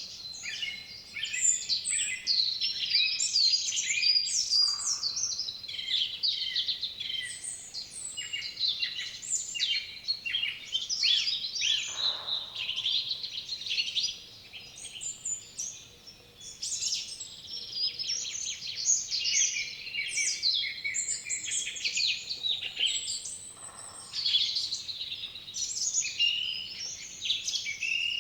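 A chorus of several songbirds singing at once, dense overlapping chirps and trills without a break.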